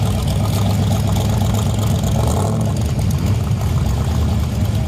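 Car engine running loud and steady with a low, throbbing sound.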